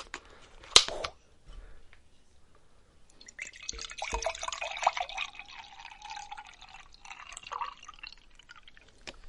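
Apple juice being poured from a bottle into a cup in a continuous splashing stream for about five seconds, starting about three seconds in. A sharp knock comes just under a second in.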